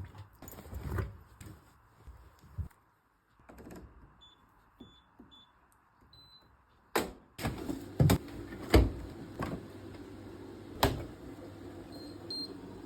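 Washing machine in use: a few knocks and clicks, then short electronic control-panel beeps. About halfway through there is a loud click and the machine starts running with a steady low hum and occasional clicks, with more beeps near the end.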